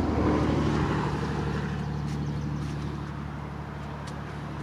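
Road traffic: a passing car's engine and tyre noise, fading away over the first few seconds and settling to a steady low drone.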